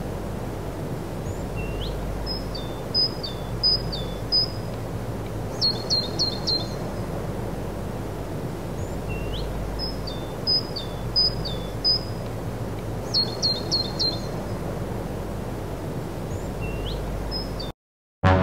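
A songbird singing short phrases of quick high chirps, each opened by a short rising note, repeated every few seconds over a steady low outdoor background noise.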